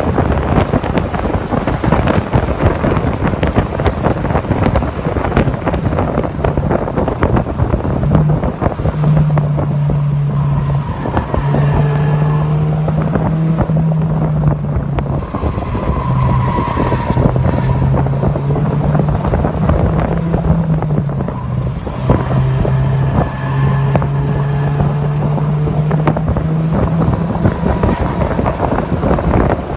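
Mazda MX-5 (NC) four-cylinder engine pulling at steady high revs while the car laps a race track, buried under heavy wind buffeting on the microphone. The buffeting dominates at first. From about eight seconds in a steady engine drone comes through, dropping out briefly a few times as the driver lifts or shifts.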